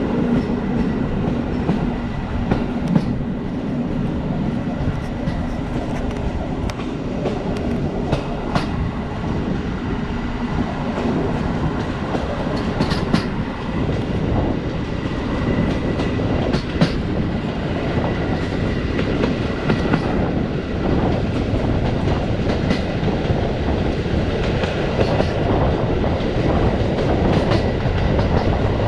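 Passenger train carriage rolling along the track: a steady rumble of steel wheels on rail, broken by sharp scattered knocks and taps from the wheels and coach, with a faint steady whine underneath.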